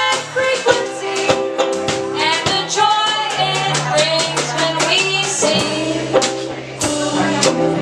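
Live band playing a song: pitched instrumental and vocal-like lines over a steady run of sharp percussive strikes, with guitar in the mix.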